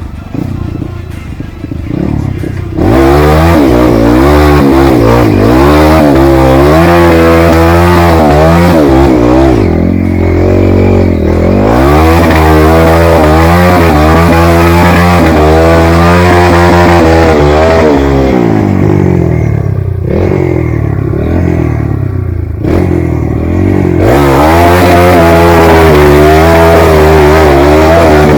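Dirt bike engine revved hard again and again, its pitch climbing and falling with the throttle. It comes in loud about three seconds in and eases to a lower, steadier note twice, around ten seconds and again around twenty seconds in.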